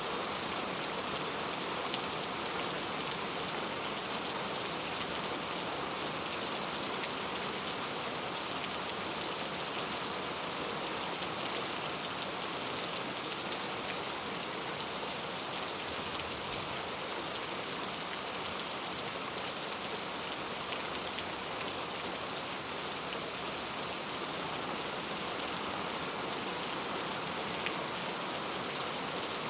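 Heavy rain falling steadily, an even hiss with scattered small drop ticks.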